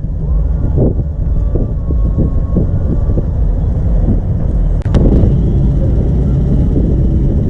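A car engine running with a steady low rumble, which grows louder and fuller after a sharp click about five seconds in. Wind buffets the microphone.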